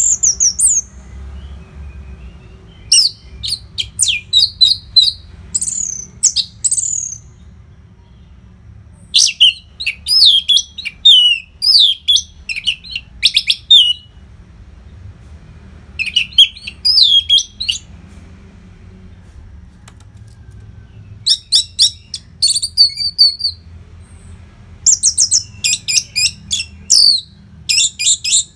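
Orange-headed thrush (anis merah) singing phrases of sharp, rapid high whistles and trills, in bursts of a second or two separated by short pauses.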